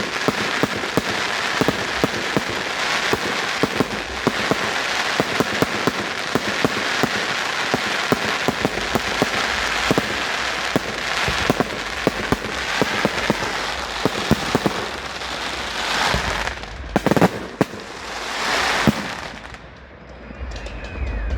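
Fireworks display: a dense, continuous crackle of many small pops, with several louder bangs towards the end before it dies down.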